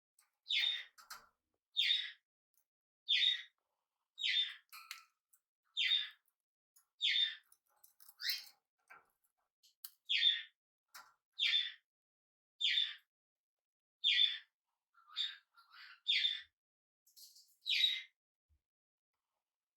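A budgerigar calling the same short, loud chirp over and over, about once every second or so, some fifteen times.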